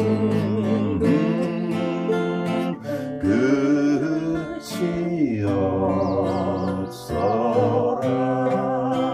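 Acoustic guitar and ukulele strummed together, accompanying a singing voice that holds notes with vibrato.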